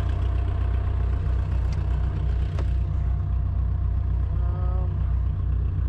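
A vehicle engine idling steadily with a low, even hum, with a couple of faint clicks in the first half.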